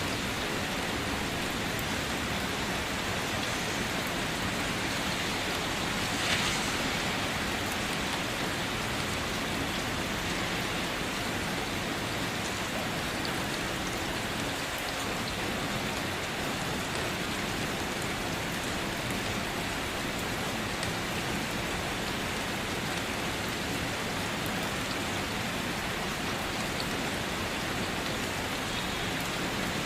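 Steady rain falling, an even hiss of drops on a surface, with one brief tap about six seconds in.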